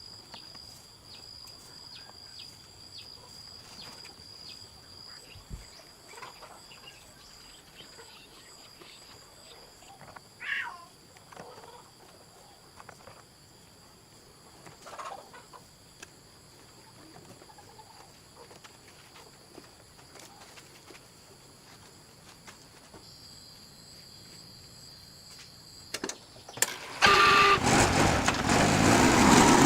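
Faint steady insect drone with a few short animal calls. About 27 seconds in, a loud motor vehicle sound starts suddenly and keeps going.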